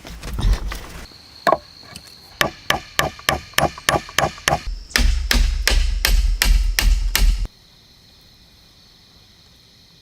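A tool striking wood in quick repeated blows, about four to five a second, the later blows louder with a low rumble under them. The blows cut off abruptly about three-quarters of the way through, leaving a faint steady background.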